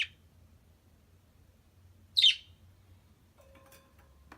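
A pet bird giving two short, sharp chirps about two seconds apart, each sweeping down in pitch; the second is the louder.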